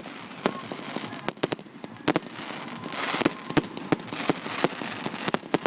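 Fireworks going off in an irregular string of sharp bangs and reports over a hiss of crackle, with a denser patch of crackling about halfway through.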